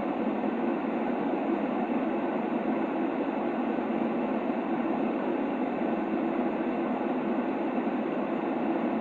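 Steady white-noise sleep sound: an even, unchanging rushing hiss, weighted toward the low-middle with little deep bass or high treble.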